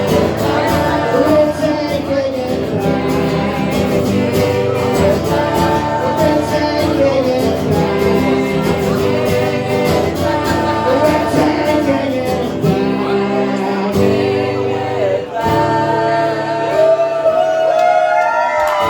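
Live acoustic song outro: strummed acoustic guitar under a voice singing a wordless melody. Sliding high tones come in near the end.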